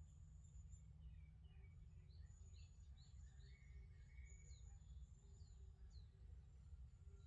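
Faint birdsong: several birds calling with short high chirps, quick falling notes and thin whistles, over a low steady rumble.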